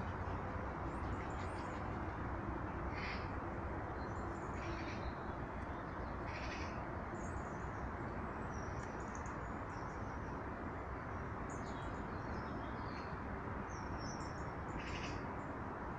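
Wild birds calling at feeders: four short, harsh calls spread through the stretch, with scattered high thin chirps between them, over a steady low rushing background.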